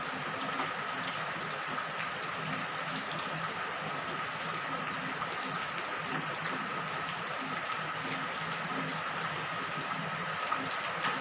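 Steady rain falling, an even hiss with no breaks, over a faint constant high tone.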